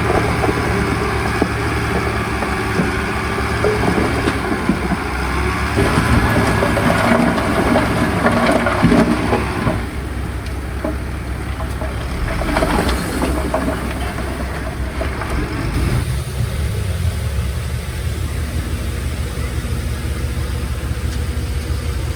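Heavy diesel earthmoving machinery running with a steady low engine drone. Between about four and ten seconds in it gets louder, with clanks and rattles, then settles back to a quieter, even drone.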